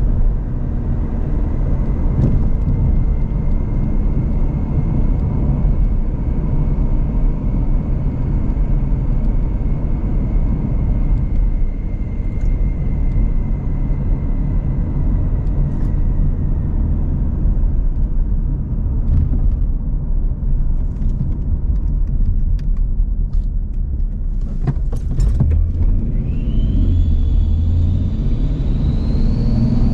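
Twin-turbo V6 Mustang, not yet boosted, driving: a steady engine and road rumble. Near the end the engine pitch rises with a high whine climbing alongside it as the car accelerates.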